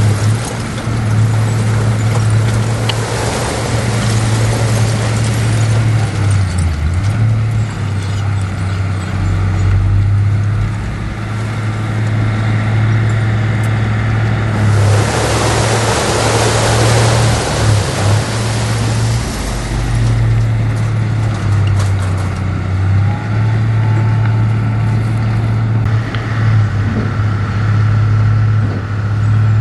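Heavy diesel earthmoving machinery running steadily, with a deep engine drone that dips and shifts pitch now and then. About halfway through, a rushing, hissing noise swells for roughly five seconds.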